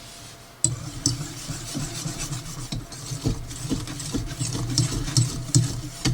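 Thick homemade chocolate frosting being stirred in a bowl, scraping strokes repeating at about two a second.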